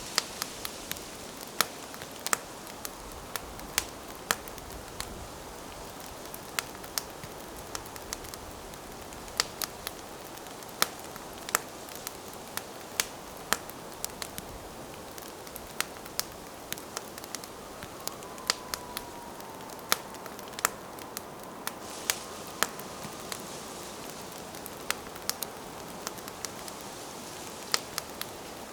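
Wood campfire crackling: irregular sharp pops and snaps, several a second at times, over a steady soft hiss of burning.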